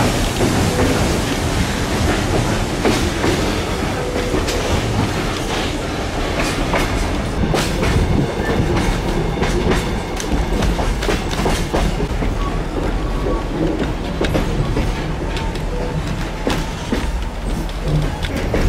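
Passenger train running along the track, heard from on board: a steady rumble of the carriages with irregular clicks and clacks of the wheels over the rails.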